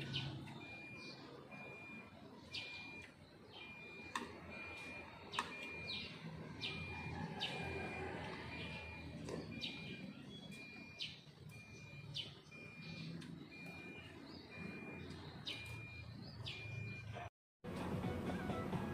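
Small birds chirping with short, sharp chirps that drop in pitch, scattered irregularly, over a high short note repeated evenly about twice a second and a low outdoor background hum. The sound cuts out for a moment near the end.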